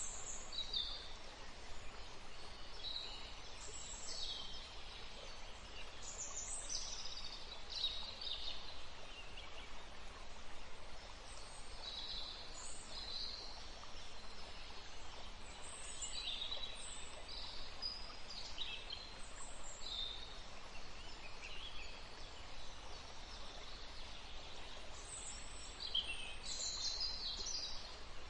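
Birds chirping, many short high calls overlapping and scattered all through, over a steady low background hum.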